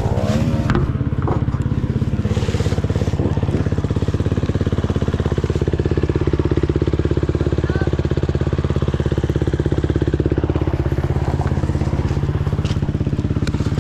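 KTM SX150 dirt bike's two-stroke single-cylinder engine idling steadily.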